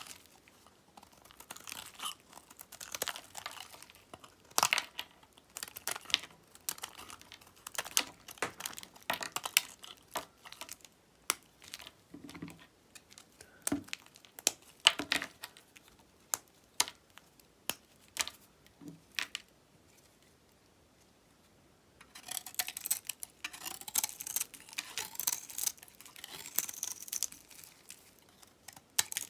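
A knife cutting through dry soap: crisp cracks and crumbly crackles, one after another. About two-thirds of the way through they stop for a couple of seconds, then come back as a denser run of crumbling, scraping crackles.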